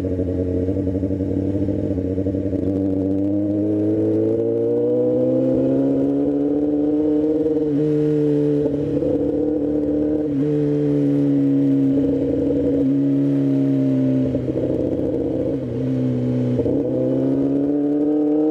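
Motorcycle engine running steadily while riding. Its pitch rises slowly over the first several seconds, then dips briefly several times as the revs drop and pick up again.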